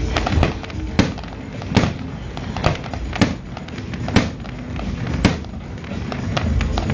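Fireworks going off: a string of sharp bangs, roughly one a second but irregularly spaced.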